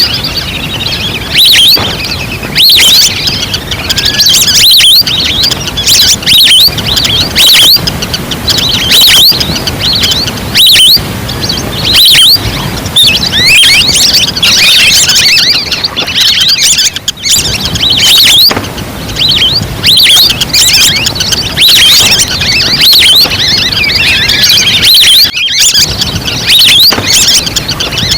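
Recorded wild-duck lure call: a dense flock chorus of short, high whistles and chirps, overlapping with no pause, played loud for luring waterfowl.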